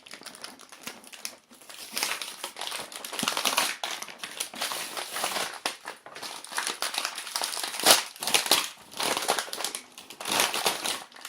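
Plastic packaging crinkling and crackling as a package of toy dishes is pulled open by hand, in irregular bursts with a few sharper crackles.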